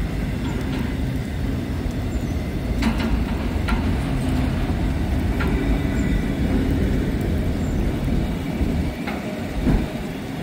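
Slow freight train of auto rack cars rolling past with a steady low rumble, broken by a few sharp clicks.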